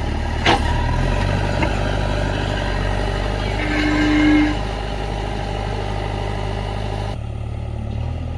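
Heavy diesel machinery running steadily, a low engine drone, with a sharp knock about half a second in and a short steady tone around the four-second mark.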